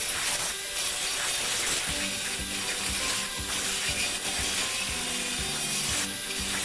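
Hand-tool work on the engine's metal cooling pipework, a continuous loud rasping and ratcheting, over quieter background music. It cuts off abruptly at the end.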